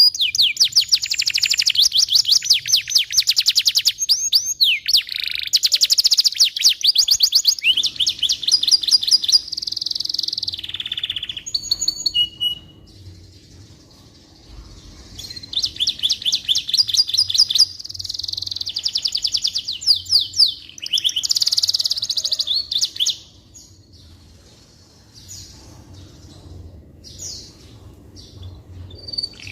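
Domestic canary singing: long phrases of fast trills and rolls of high repeated notes. A pause of a few seconds comes about halfway through, and softer scattered notes come later, before full song starts again right at the end.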